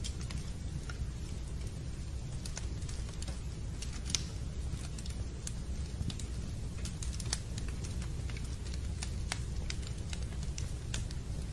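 Fireplace fire crackling: irregular sharp pops and snaps over a steady low rumble, with one louder pop about four seconds in.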